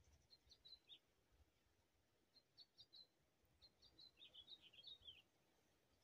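Faint bird song: quick high chirps in three short phrases, the last and longest about four to five seconds in.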